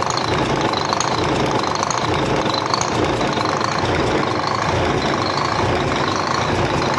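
Weichai marine diesel engine running steadily with a rapid knocking, in an engine the owner complains of for its head gasket.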